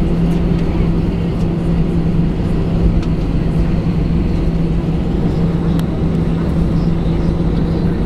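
Steady cabin hum inside an Airbus A318: a low rumble with one strong, steady low tone over it.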